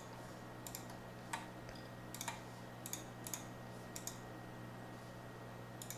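Scattered computer keyboard clicks, single and in quick pairs at irregular intervals, over a faint steady low hum.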